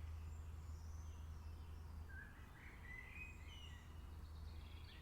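Faint rainforest ambience: scattered bird chirps and whistles, most of them in the middle, over a steady low hum.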